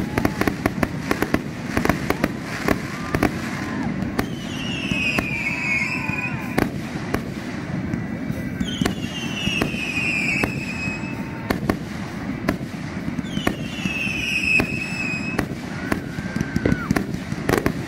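Consumer fireworks finale of multi-shot cakes: rapid, dense shots and crackling bangs throughout. Three long whistles of about two seconds each come in about four, nine and thirteen seconds in, each drifting slightly down in pitch.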